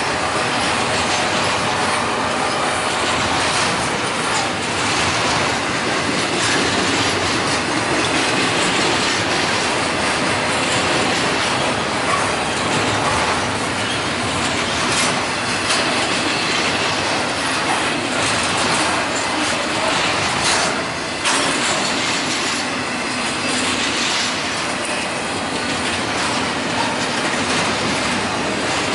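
Double-stack intermodal train's loaded well cars rolling past: steady wheel-on-rail noise with scattered clicks of wheels over rail joints.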